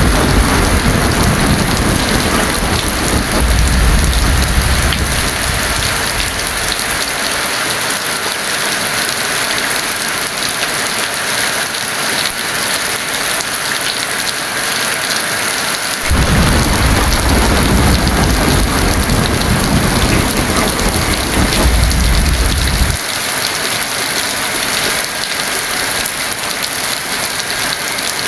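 Heavy rain falling steadily, with two rolls of thunder: one rumbling at the start and dying away by about seven seconds in, and another starting suddenly about sixteen seconds in and cutting off abruptly some seven seconds later.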